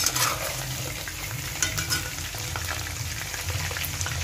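Whole baby potatoes sizzling and crackling in hot mustard oil in a steel pot, with a metal spoon clinking and scraping against the pot as they are scooped out, fully fried.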